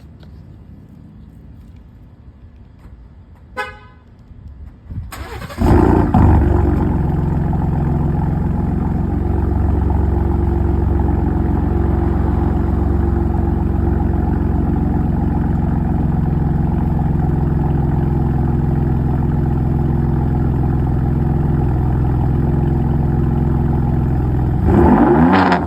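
Ford 3.5L EcoBoost twin-turbo V6 through a Borla ATAK dual exhaust on a cold start: a short horn chirp, then the engine cranks, catches with a flare and settles into a steady cold idle. Near the end it is revved once, rising and falling.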